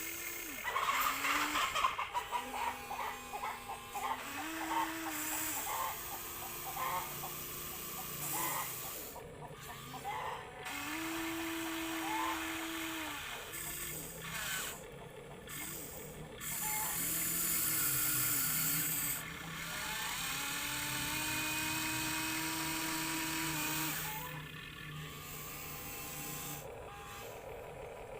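Small electric motors and plastic gearboxes of remote-control toy construction vehicles whirring. The whine stops, restarts and shifts in pitch as the motors come on and off, with a stretch of clattering gear noise about a second in.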